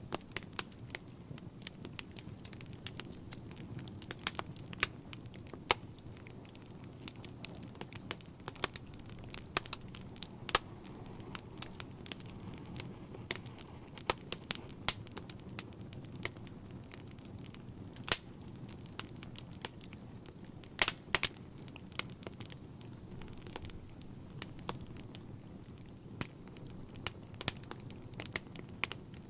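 Wood fire burning in a fireplace: irregular sharp crackles and pops over a steady low rush of flame, with a few louder pops about 18 and 21 seconds in.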